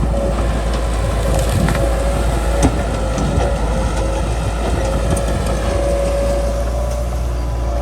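Bulldozer's diesel engine running steadily with a steady whine, while branches and brush crack and snap under the machine; the loudest snap comes a little under three seconds in.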